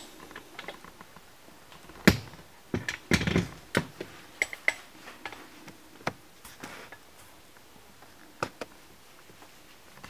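Irregular sharp metallic knocks and clinks, some ringing briefly, of tools worked against a garbage disposal's dishwasher drain inlet to punch out its knockout plug.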